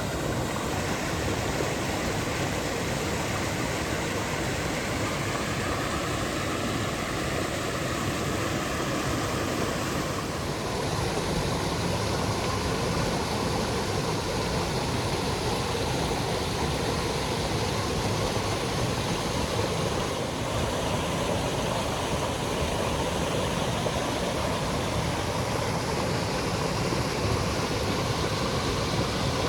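Creek water rushing and splashing as a steady, loud flow, like a small waterfall or cascade; the sound shifts slightly about ten seconds in.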